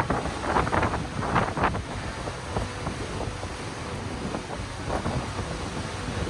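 Wind buffeting the microphone as a steady low rumble, with a few short sharper sounds in the first couple of seconds.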